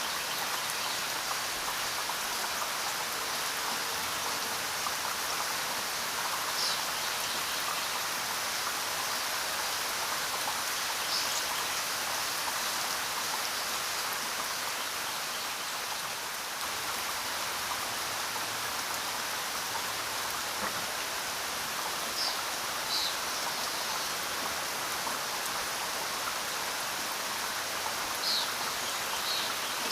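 Steady rainfall, a continuous even hiss of rain on the ground, with a few brief high-pitched ticks scattered through it.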